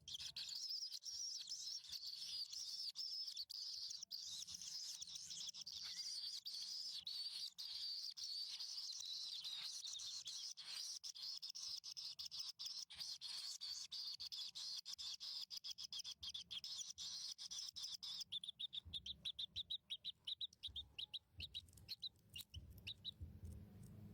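Baby birds in the nest chirping in a dense, continuous high-pitched chorus, typical of begging calls. About two thirds of the way in, the chorus breaks into rapid separate chirps, which stop shortly before the end.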